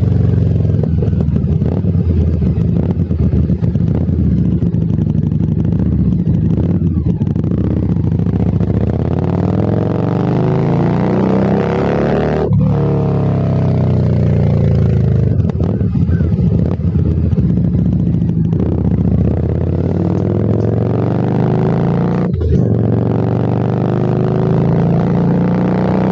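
Harley-Davidson Street 750's V-twin engine through a Vance & Hines aftermarket exhaust, riding under acceleration: the pitch climbs and then drops sharply at gear changes, about halfway through and again near the end.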